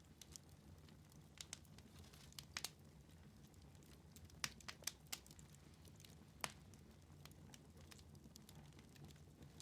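Wood fire burning in a fireplace, crackling faintly with scattered sharp pops over a low steady rumble, the loudest pops about halfway through.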